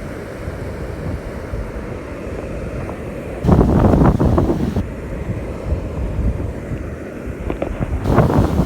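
Wind buffeting the microphone over the steady wash of ocean surf, with a strong gust about three and a half seconds in and another near the end.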